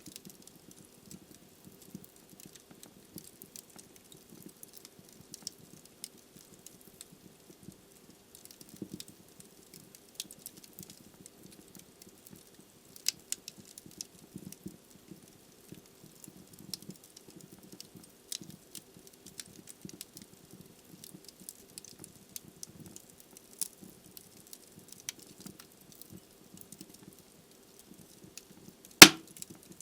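Wood fire burning in a fireplace, crackling with frequent small irregular pops over a low steady rush of the flames. One loud, sharp pop near the end.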